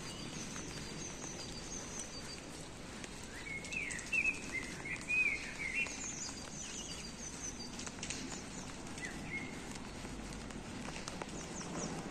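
Small birds chirping over a steady background hum and hiss, with a quick run of louder chirps about four to six seconds in and thin high chirps repeating throughout.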